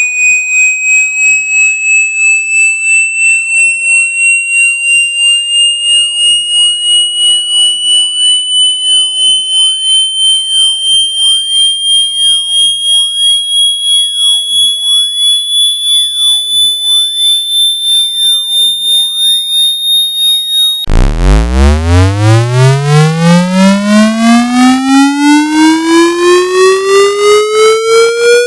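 Electronic water-eject test tone: a high pure tone gliding slowly upward, pulsing about twice a second. About 21 seconds in it switches abruptly to a low, buzzy tone that sweeps upward from a deep hum, still pulsing.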